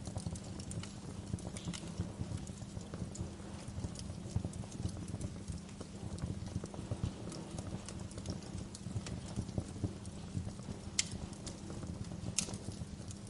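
Wood fire crackling in a fireplace: a dense, steady run of small crackles over a low rumble, with a couple of sharper pops near the end.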